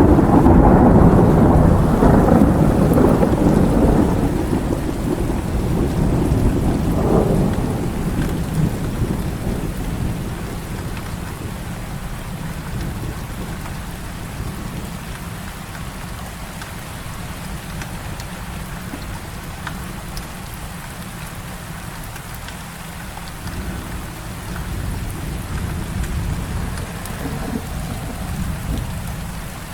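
Heavy rain falling steadily with thunder rumbling over it. A loud rumble of thunder breaks in right at the start and slowly dies away over about ten seconds, and another swell of rumbling comes near the end.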